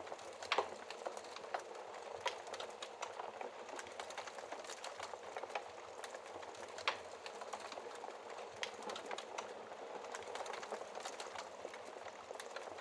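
Wood fire burning in a fireplace: a steady soft hiss with constant small crackles and a few louder sharp pops, one about half a second in and another about seven seconds in.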